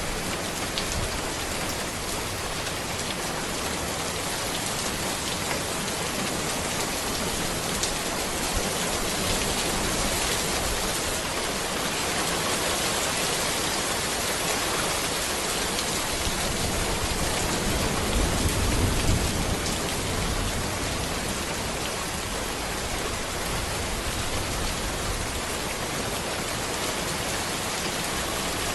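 Steady rain falling on a road and trees, a dense even hiss with scattered drop ticks. A low rumble swells briefly about two-thirds of the way through.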